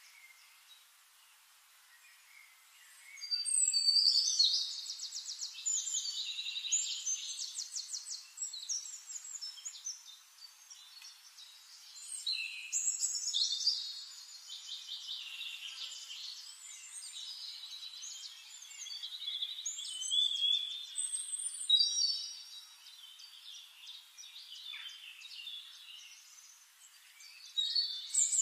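Birds singing: several phrases of rapid, high trills, each a few seconds long, with quieter gaps between them.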